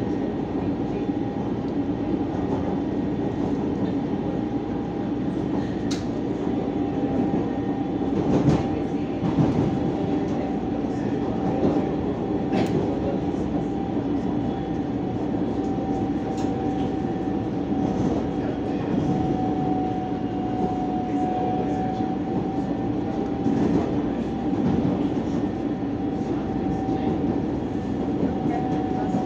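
Electric commuter train running along the track, heard from inside the carriage: a steady rumble with a held tone and a few sharp clicks scattered through it.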